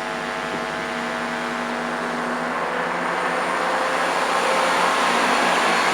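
Class 170 Turbostar diesel multiple unit's underfloor diesel engines running, a steady engine drone that slowly grows louder as the unit works up.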